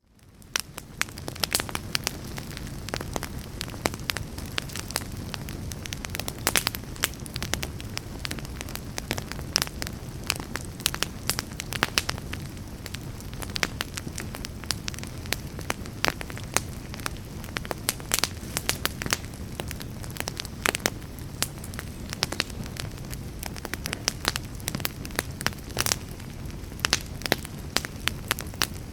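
Wood fire burning in a fireplace, with a steady low rumble of flames and frequent sharp, irregular crackles and pops; it fades in over the first second.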